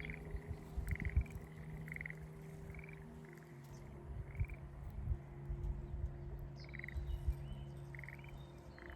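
Schlegel's green tree frogs calling: short rattling trills, repeated every second or so.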